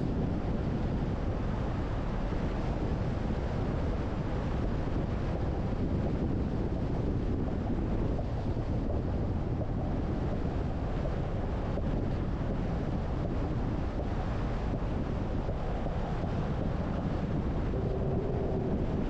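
Steady wind and road noise from a car driving, with wind buffeting the microphone.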